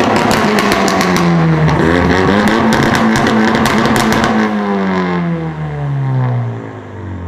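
Sports car engine revving hard with a rapid crackle from the exhaust. Its note dips, climbs again and holds, then falls steadily and grows quieter over the last few seconds.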